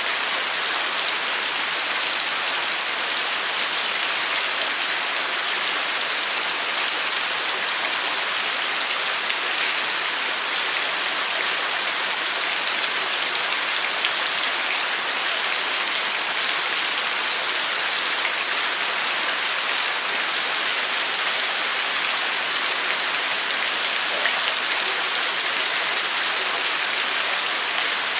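Steady rain falling, a constant even hiss of drops with no breaks or distinct events.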